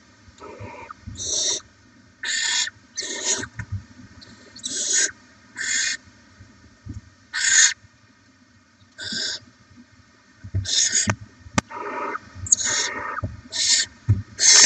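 Barn owl chicks' hissing, snore-like begging calls: a dozen or more harsh bursts of about half a second each at irregular intervals, bunching up near the end. A single sharp click sounds about two-thirds of the way through.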